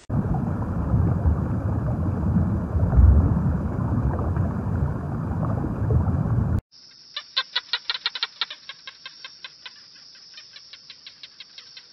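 Muffled underwater rumble and water noise, cutting off suddenly about six and a half seconds in. A quieter run of sharp clicking chirps follows, several a second, spacing out toward the end.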